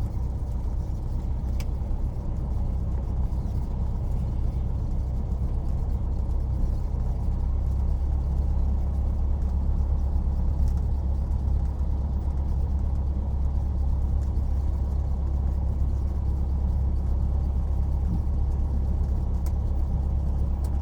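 Cessna light aircraft's piston engine and propeller running steadily as a deep, even drone, growing slightly stronger about a third of the way in.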